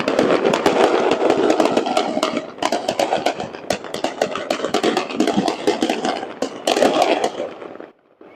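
A rapid barrage of fireworks: dense crackling and popping reports over a continuous rumble, which stops abruptly near the end.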